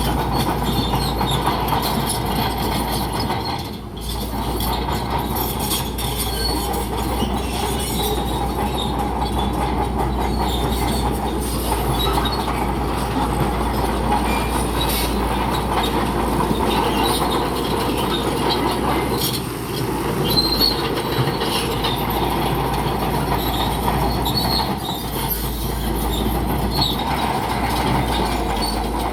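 Crawler bulldozer working, its steel tracks clanking and squealing over a steady diesel engine drone.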